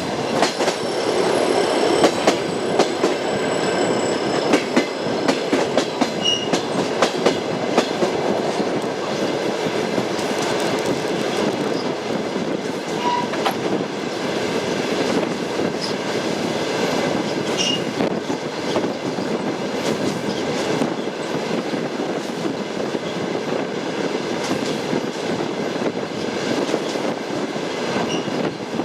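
Train wheels clattering over rail joints on a moving passenger train, over a steady running rumble. The clicks come thickest in the first few seconds, and a few brief squeaks sound along the way.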